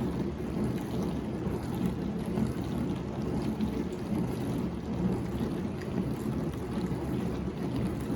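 Whirlpool WDF310PAAB4 dishwasher running through its diagnostic cycle: a steady, low rush of circulating water and pump.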